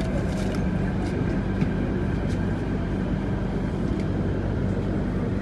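Steady running noise heard inside an MTR C-train (CNR Changchun EMU) carriage on the move: wheel-on-rail rumble with a steady low hum.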